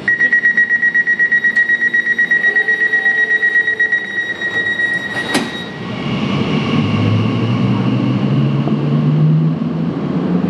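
Rapid, steady door-closing warning beeps sound for about six seconds, ending with a sharp clunk as the doors shut. Then an Elizabeth line Class 345 train pulls away, its traction motors rising in pitch as it accelerates.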